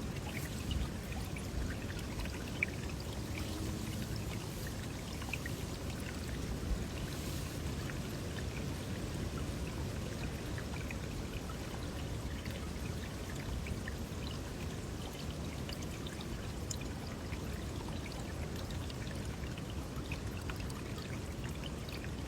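Steady rushing noise, strongest in the low end, with a few faint scattered ticks.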